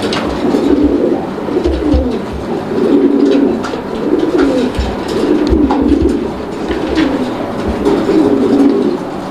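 Domestic pigeons cooing over and over in a loft, one coo phrase after another about a second each, with a few low knocks mixed in.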